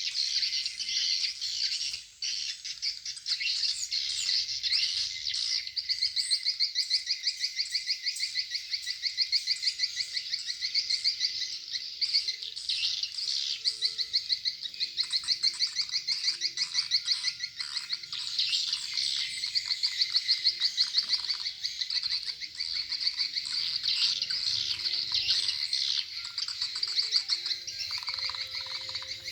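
Swiftlet calls: a dense, continuous stream of rapid, high chirping trills, the kind of swiftlet call sound (suara panggil) played to lure swiftlets into a swiftlet house.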